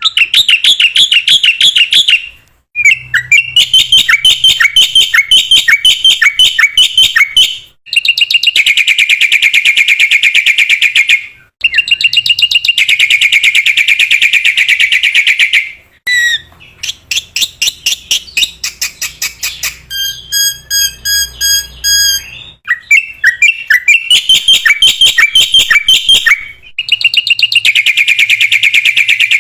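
Black-winged myna (jalak putih) singing loudly: long runs of rapid, repeated shrill notes in phrases a few seconds long, broken by short pauses. Near the middle comes one phrase of slower, evenly spaced piping notes.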